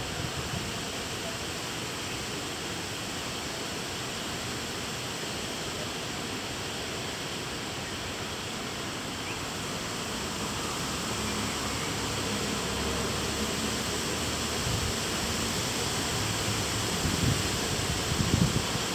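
Steady rain hiss during a thunderstorm, growing a little louder in the second half, with a low rumble coming in and a few low thumps near the end.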